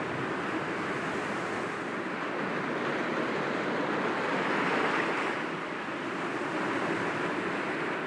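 Sea waves breaking gently against rocks, a steady rush of surf that swells a little louder about halfway through and eases off again.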